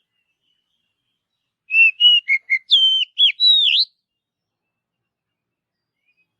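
Oriental magpie-robin (kacer) singing one short phrase of clear whistled notes, starting about two seconds in and lasting about two seconds. The phrase runs through several quick notes and ends in a long whistle that sweeps up at the end.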